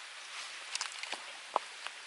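Small wood fire burning in a UNIFLAME Nature Stove: a steady hiss with a few sharp crackles and pops, the loudest a little past the middle.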